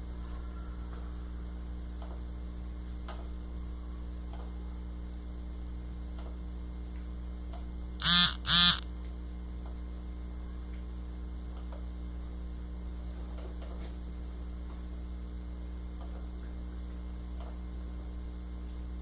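A dachshund gives two short, loud barks half a second apart about eight seconds in, over a steady electrical hum.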